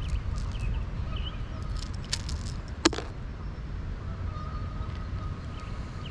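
Steady low rumble of wind on the microphone, with scattered small clicks and one sharp click about three seconds in, over a faint steady high tone.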